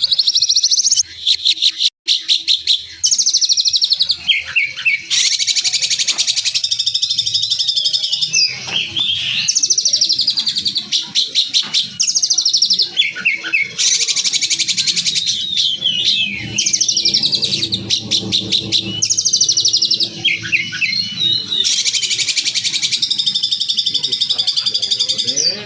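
Songbird song recorded as a masteran for training contest birds: harsh, rapid high trills and buzzy rattles, phrases of one to two seconds back to back with quick runs of sliding chirps between them.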